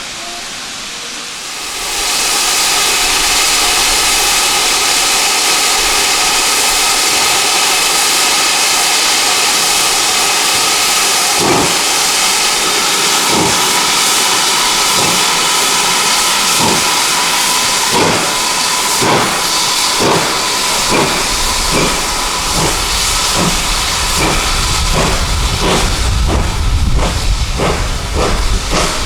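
Steam locomotive starting away: a loud steady hiss of steam begins about two seconds in, and then exhaust beats start, slow at first and quickening steadily as the train gathers speed. This is GWR Manor class 4-6-0 No. 7802 Bradley Manor. A low rumble of the moving train builds near the end.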